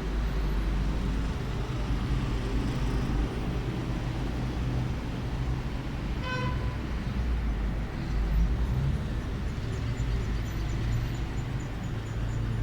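Steady low outdoor rumble of the kind made by traffic, with one short pitched toot about six seconds in.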